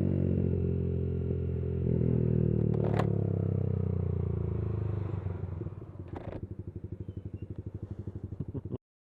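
Yamaha YBR 125's single-cylinder engine through a Leo Vince GP Corsa aftermarket exhaust, running steadily under way, with a sharp click about three seconds in. Near the end the engine speed drops off to a slow, evenly pulsing exhaust beat, and then the sound cuts off suddenly.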